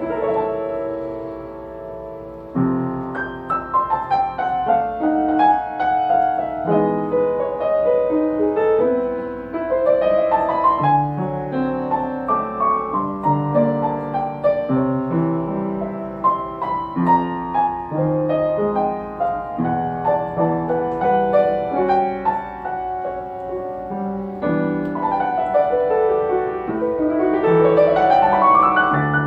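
Solo jazz piano playing a slow ballad with rich extended chords, the melody moving over bass notes, and a quick rising run near the end.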